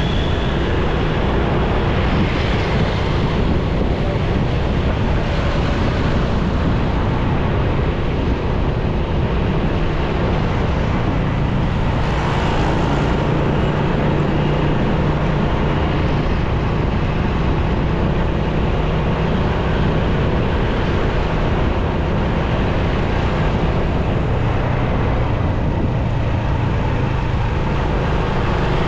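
Motorcycle riding through city traffic: wind rushing over the microphone over the bike's running engine and the engines of surrounding vehicles. A low engine hum swells briefly about halfway through.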